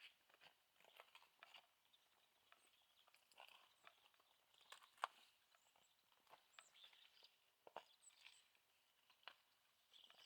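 Very quiet, faint footsteps crunching on the ground at an irregular pace, with one sharper crunch about halfway through.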